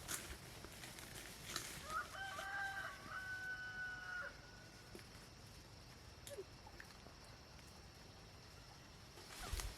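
A rooster crowing once, a single drawn-out call of about two and a half seconds, starting about a second and a half in.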